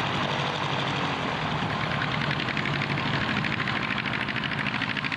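Aircraft engine running steadily, with a fast, even pulsing that comes in about two seconds in.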